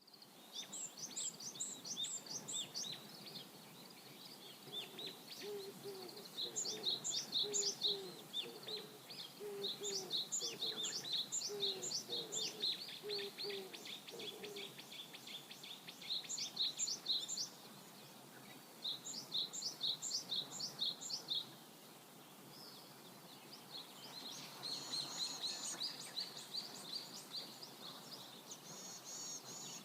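Songbirds singing repeated phrases of quick high notes, several times over. A lower, evenly repeated call joins in for about ten seconds in the first half, over the faint flow of a river.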